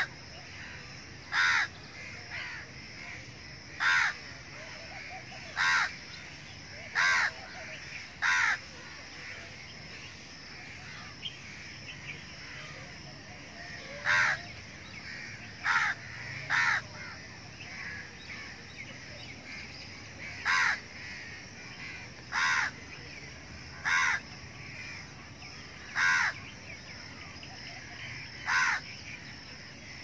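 A bird calling outdoors: about a dozen loud, short calls, repeated every second and a half to two seconds with a pause of several seconds in the middle.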